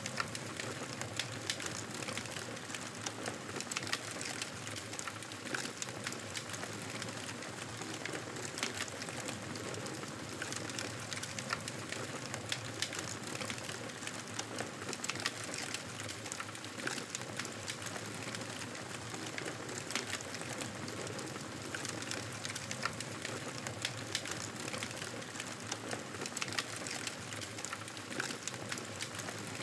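Campfire burning, with a steady hiss and many small crackles and pops scattered through it.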